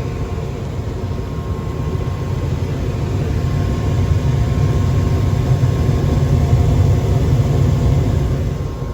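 GMC gas furnace running: a steady low rumble with a faint steady tone above it, dropping a little in level near the end.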